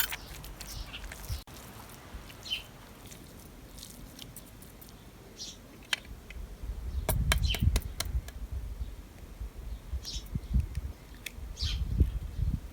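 Birds chirping now and then, short separate chirps, over low rustling and knocking from close-by handling that grows louder past the middle and again near the end.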